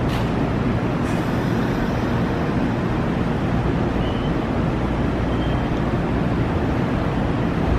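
Nankai electric train running in a station, a steady low rumble with two faint brief high squeals about four and five and a half seconds in.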